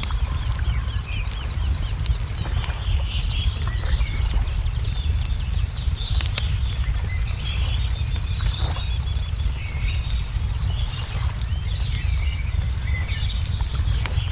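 Wood fire crackling with scattered small pops while songbirds chirp and twitter throughout, over a steady low rumble.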